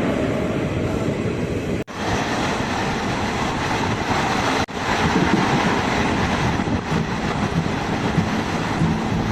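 Express passenger train running along the track, heard from aboard: a steady rumbling, rattling running noise that cuts out suddenly for an instant twice, about two seconds in and just under five seconds in.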